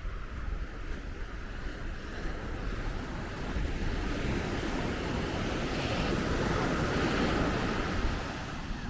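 Sea surf on a beach: a wave builds, breaks loudest about seven seconds in and then eases off, with wind noise on the microphone throughout.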